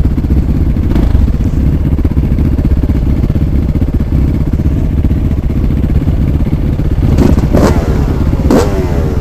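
Off-road motorcycle engine running at low revs with a steady pulsing beat; near the end come sharp clattering bursts, each followed by a pitch that falls away.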